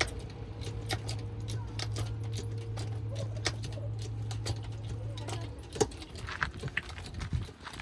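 Backhoe loader at work: a steady low engine hum with scattered knocks and clanks. The hum stops about five and a half seconds in, and the knocks carry on.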